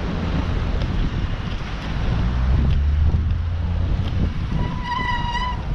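Wind buffeting the microphone of a camera carried on a moving bicycle: a steady low rumble, heaviest a couple of seconds in. Near the end, a single steady high tone lasting about a second.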